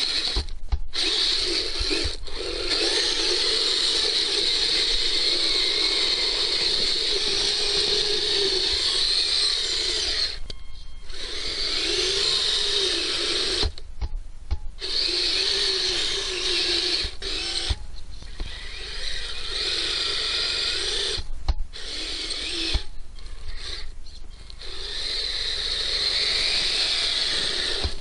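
Electric motor and gearbox of a Kyosho Blizzard RC tracked snow vehicle whining under throttle. The sound stops and restarts briefly several times, around 10 s, 14 s, 18 s, 21 s and 23 s.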